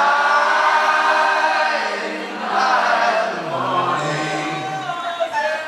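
Many voices singing long held notes together in chorus during a live rock-show interlude, the low part stepping down about halfway through.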